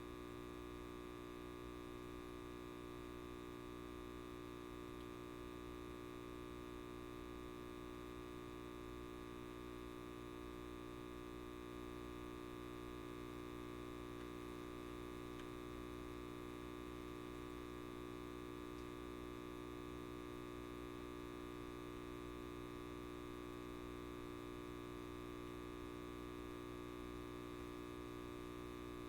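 Electric light bulb buzzing with a steady mains hum, many tones held unchanged throughout.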